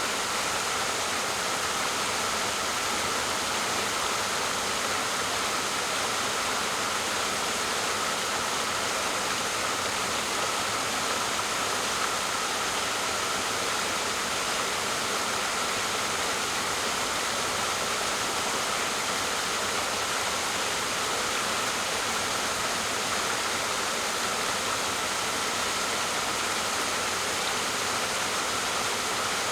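Waterfall: a steady, even rush of falling water, mostly hiss with little deep rumble, unchanging throughout.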